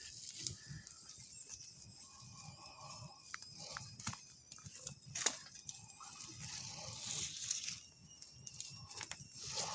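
Wood campfire crackling, with scattered sharp pops and a soft hiss that comes and goes, and a faint sizzle of pork fat roasting over the flames.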